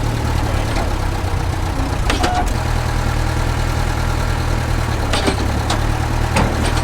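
An engine idling steadily, with a few short, sharp knocks about two seconds in and again near the end.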